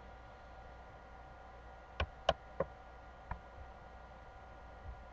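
A few short sharp clicks, four of them between about two and three and a half seconds in, over a faint steady hum.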